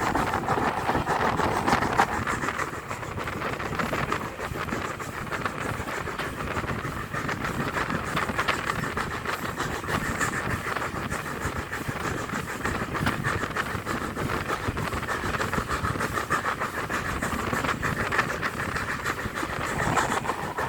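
Steam-hauled passenger train running along the line: a steady rumble with a continuous fine clatter of wheels on the rails.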